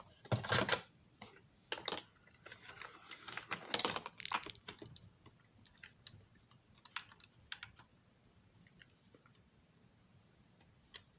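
Light clicks and clatter of a model railroad passenger car and small parts being handled on a workbench. A cluster of taps comes in the first few seconds, then sparse faint ticks, and one sharp click near the end.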